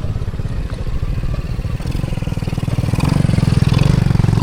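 A vehicle engine running while driving, with a steady rapid pulsing that gets louder about three seconds in.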